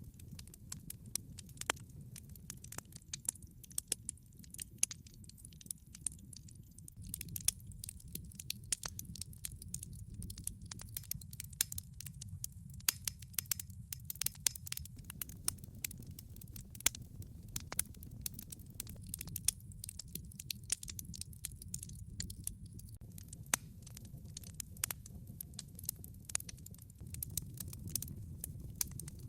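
Wood fire crackling in a fireplace: many irregular sharp pops and snaps over a steady low rumble of burning logs.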